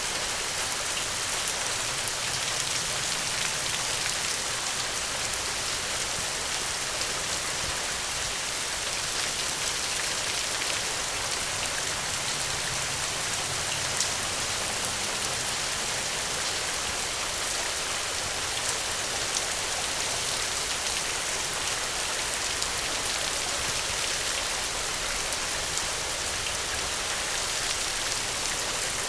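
Steady, even rain with scattered sharper drop ticks, one a little louder about halfway through.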